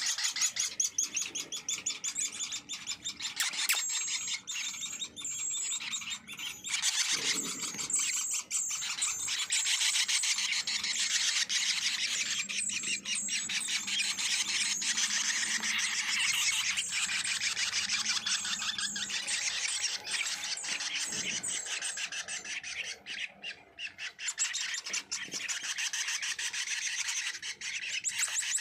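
Small songbirds calling continuously in rapid, high chirping trills, several overlapping, with a brief lull about 23 seconds in.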